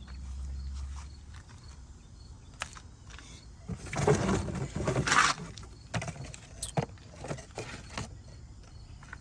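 Scattered clicks and plastic rustling from hands working a vacuum line and its plastic clips, with a low hum that fades out about a second in.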